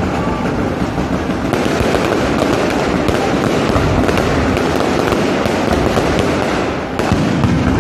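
Electronically fired fireworks barrage: a continuous volley of rapid launches, bursts and dense crackling, with a sharper bang about seven seconds in.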